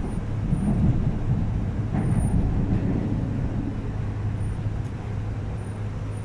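Cabin noise of an MTR East Rail R-Train running between stations: a steady low rumble with a steady hum underneath.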